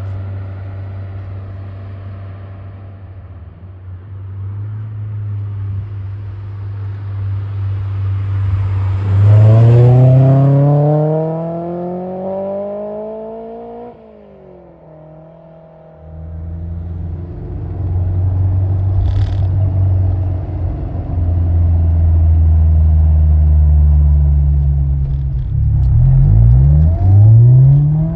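Honda S2000's four-cylinder engine heard through a K1 Laboratory EX70 aftermarket muffler. It idles, then revs in one long climb that cuts off suddenly about halfway in. After a short lull comes a long loud steady stretch, and then several quick revs near the end.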